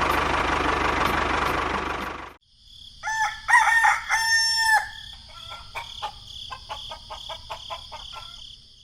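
A loud, dense mechanical-sounding noise cuts off abruptly about two seconds in. A rooster then crows once, followed by a string of short clucks, over a steady high-pitched whine.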